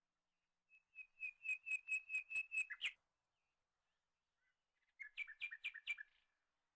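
A bird singing two phrases of quick, evenly repeated high notes, about four a second; the first phrase is longer and ends in a brief flourish, the second is shorter.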